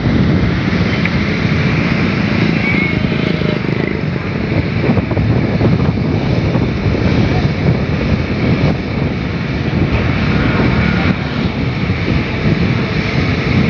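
Steady, loud engine running under wind buffeting the microphone.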